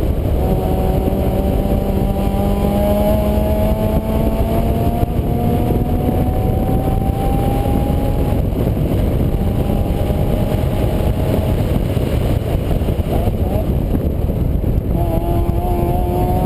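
Vehicle engine running under heavy low rumbling noise, its pitch climbing slowly over the first several seconds as it picks up speed, then fading and returning near the end.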